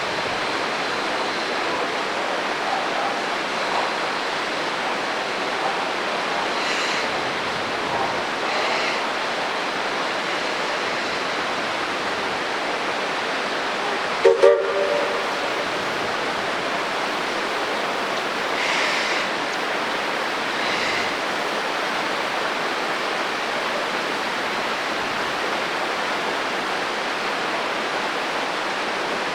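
Steady rush of a mountain creek's water. About halfway through, a narrow-gauge steam locomotive's whistle gives two short toots.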